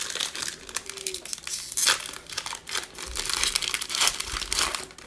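Mosaic football card pack's foil wrapper being torn open and crinkled by hand: a dense, irregular run of crackling that dies away near the end.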